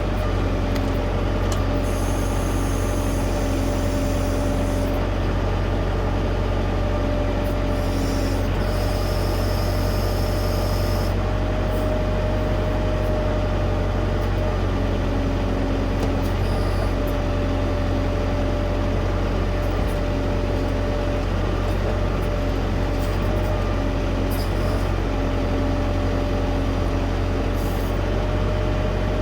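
Diesel tractor engine running steadily under work, with a constant tone over the drone and a lower tone that cuts in and out. A high hiss comes in twice, about two seconds in and again around eight seconds in.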